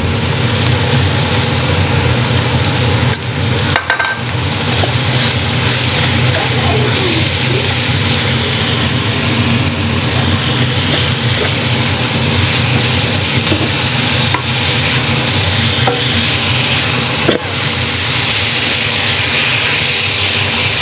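Fried rice with vegetables sizzling in a frying pan while being stirred and turned with a spatula, over a steady low hum. The spatula knocks against the pan a few times.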